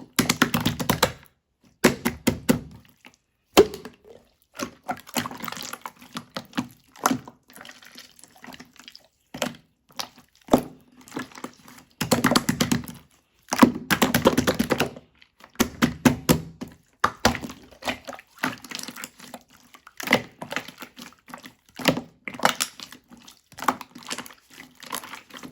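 Clear slime being squished and worked by hand: wet, sticky clicks and crackling pops in irregular bursts, some of them lasting about a second.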